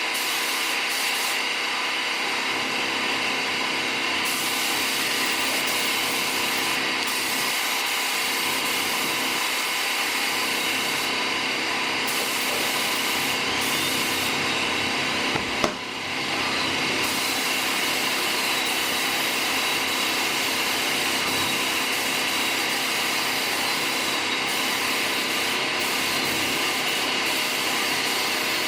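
Steady mechanical whirring with a constant hiss and several fixed tones, like air equipment or fans running, broken by a single short click about halfway through.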